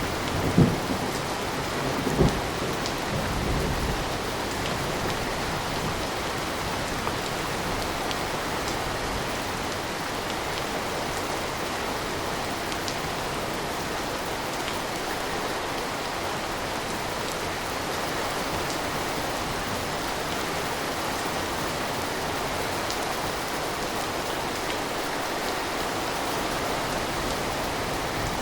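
Steady rain, with the last of a thunder roll rumbling and fading away in the first few seconds.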